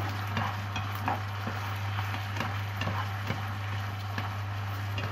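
Chicken pieces frying in a bubbling fish-sauce and sugar glaze in a nonstick pan, a steady sizzle with scattered pops and clicks as they are stirred with wooden chopsticks. A steady low hum runs underneath.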